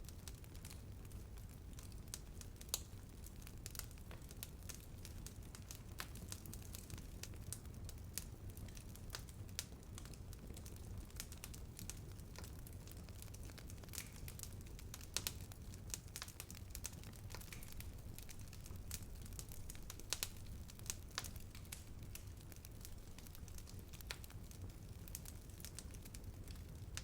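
Bonfire burning and crackling: a steady low rumble with frequent irregular sharp pops and snaps.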